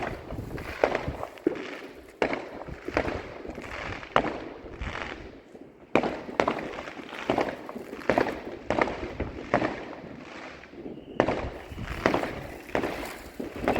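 Fireworks going off in a display: a continuous run of sharp bangs and crackles, roughly one or two a second.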